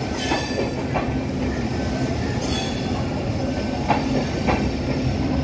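LHB passenger coaches rolling past as the train pulls out: a steady rumble of wheels on rail with irregular clicks and knocks over the rail joints and a couple of brief high wheel squeaks.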